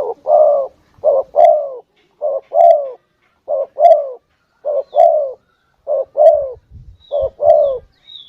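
Spotted dove (tekukur) cooing as a lure call: a short coo followed by a longer falling coo, repeated seven times at an even pace.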